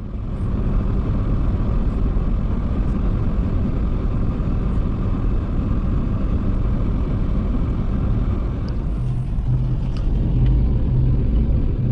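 A vehicle engine running steadily under way, a continuous low rumble with wind and motion noise. About nine seconds in, a deeper, throbbing engine note gets stronger.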